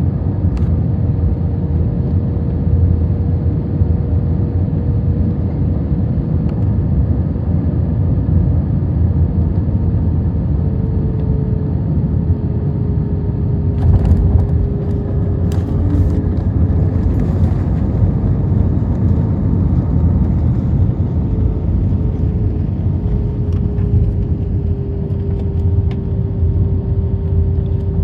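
Airbus A321 cabin noise from a window seat during the final seconds of approach: a steady rumble of engines and airflow with a faint whine. About halfway through, the wheels touch the runway with a few knocks, and the rollout rumble carries on while the whine settles slightly lower.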